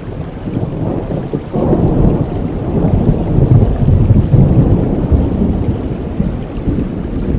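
Steady heavy rain with a long roll of thunder that swells suddenly about a second and a half in and rumbles on, loudest in the middle.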